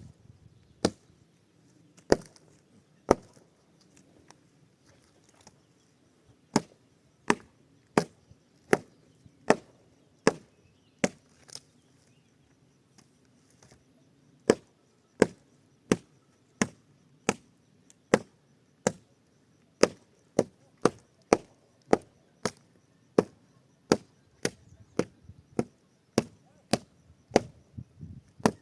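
A steady series of sharp chopping blows on wood, about one every three-quarters of a second, pausing twice briefly before carrying on.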